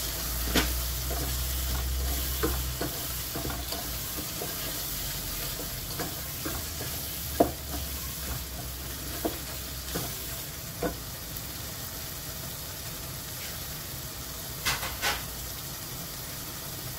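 Chilli paste frying in oil in a pot, cooked down until the oil has separated, with a steady sizzle while a wooden spatula stirs it and knocks against the pot now and then.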